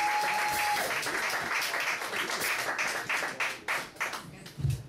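Audience applauding, the clapping thinning out and fading over the last second or so, with a low thump near the end.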